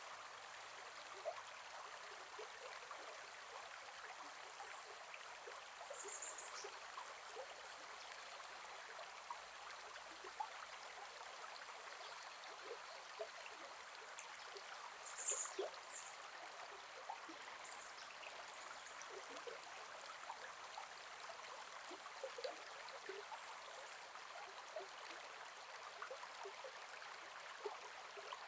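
Gentle forest river flowing: a steady soft rush of water with many small gurgles and plinks. A few short high-pitched chirps come through about six and fifteen seconds in.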